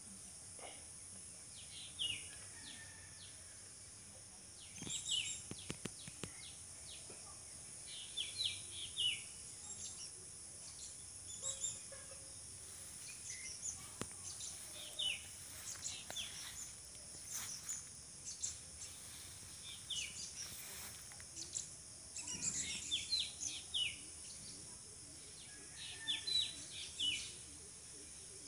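Small birds chirping outdoors: short, quick downward-sliding chirps in scattered clusters, over a steady high hiss.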